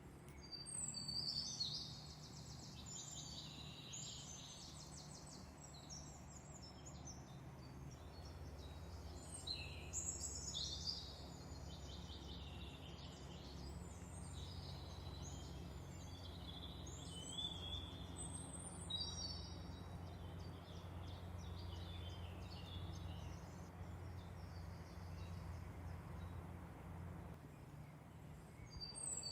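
Songbird singing a run of quick, chirpy phrases with short pauses between them, over a steady low hum.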